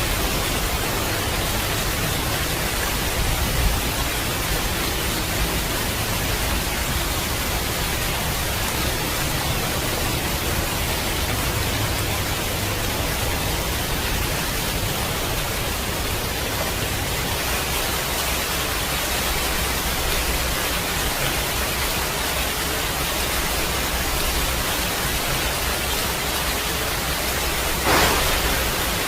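Steady rain with a constant hiss and a low rumble underneath. A sudden sharp crack of thunder comes near the end.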